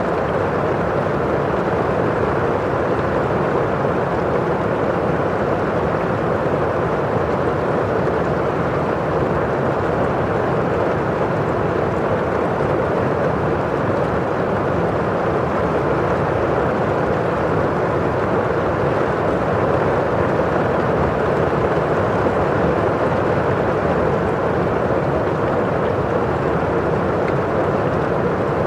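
Steady rain falling against a window pane and outside, a constant even rush of noise with no separate drops standing out.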